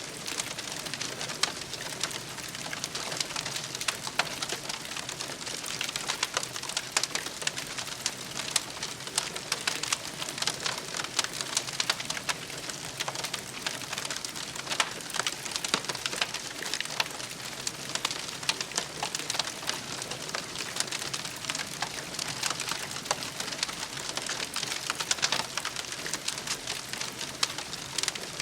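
Campfire crackling: a dense, steady run of small pops and snaps over a soft hiss.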